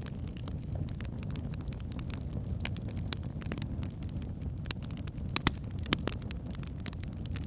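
Wood logs burning in a fireplace: a steady low rumble of flames with irregular sharp crackles and pops, a few louder pops between about five and six seconds in.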